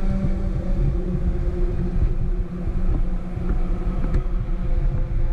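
A 250 superkart's two-stroke engine idling steadily: a low, uneven rumble under a steady hum.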